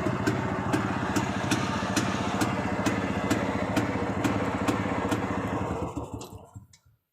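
Yezdi CL2 250 cc two-stroke single-cylinder engine idling, with a regular sharp knock about twice a second and a crank noise the owner puts down to worn-out crankshaft main bearings. About six seconds in it is switched off and runs down to a stop.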